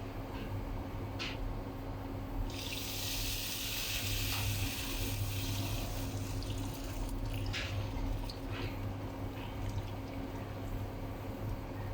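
Water running from a kitchen tap for about three and a half seconds, starting a couple of seconds in, with scattered clicks and knocks of handling around it and a low steady hum underneath.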